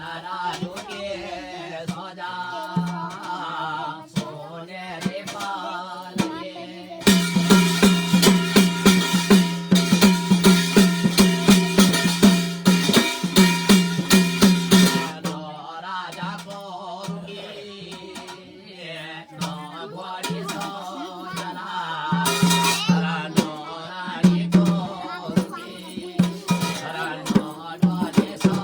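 Instrumental passage of Garhwali jagar folk music: fast drum strokes over a held drone. The drumming gets louder and denser for several seconds in the middle.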